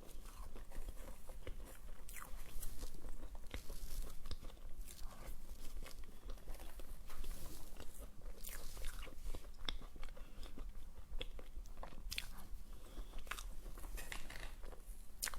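Close-miked eating sounds: a person biting and chewing dessert, with irregular crisp crunches and clicks spread through the stretch.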